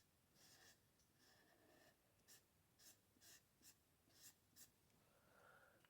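Faint, soft scratching of an alcohol marker's nib colouring on card, a series of short strokes.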